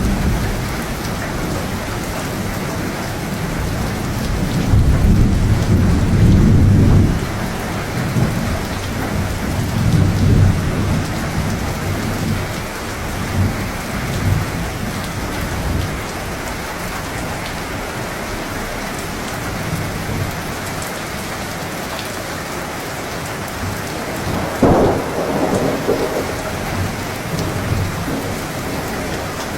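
Steady rainfall with rolling thunder: a long deep rumble swells about five seconds in, lesser rumbles follow, and a sharper thunderclap comes about three-quarters of the way through.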